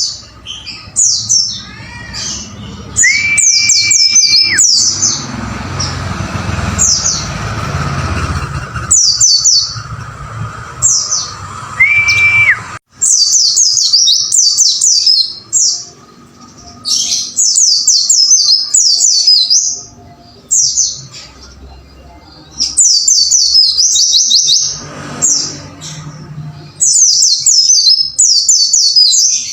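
Pleci (white-eye) birdsong: quick phrases of rapid high, falling chirping notes, repeated again and again, the lively 'gacor' song used as masteran to train caged white-eyes. Twice in the first half a plain, steady, lower whistle is held for a moment.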